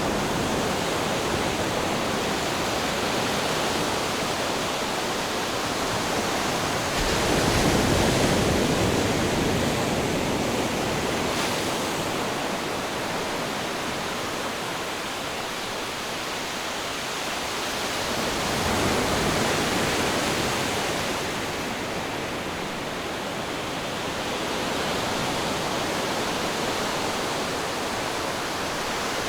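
Ocean surf: a continuous wash of breaking waves that swells and eases slowly, louder about eight seconds in and again near twenty seconds.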